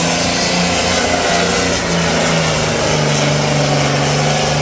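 Heavy pulling-tractor engine running at a steady speed, its pitch dipping slightly about three seconds in.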